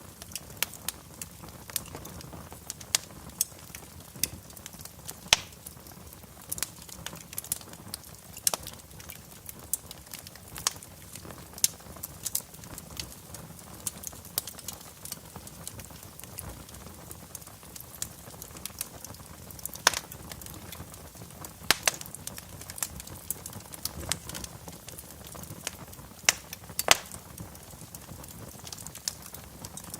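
Wood fire crackling, with irregular sharp pops, a few of them louder, over a soft low hiss of the burning logs.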